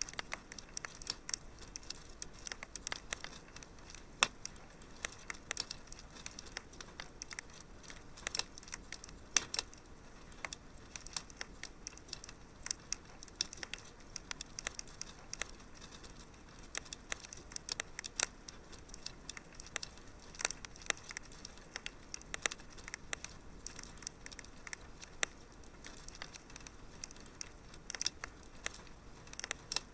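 Wood fire crackling in a fireplace: irregular small pops and snaps, several a second, over a soft hiss.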